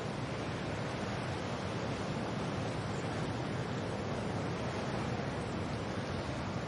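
Steady wind and rain: an even, unbroken rushing hiss without distinct gusts or single drops.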